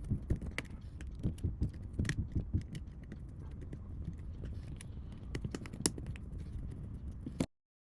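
Irregular light clicks and taps of small plastic phone parts being handled over a low rumble of handling noise. The sound cuts off abruptly near the end.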